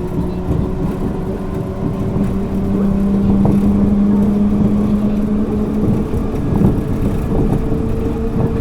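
Kobe New Transit 3000-series rubber-tyred automated guideway train running, heard inside the car: steady rumbling running noise with a motor whine. The low whine cuts out about six seconds in, and a higher tone comes in near the end.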